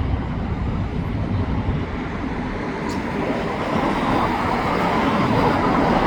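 Autorack freight cars of a slow freight train rolling past, a steady noise of the wheels on the rails that grows gradually louder, mixed with highway traffic.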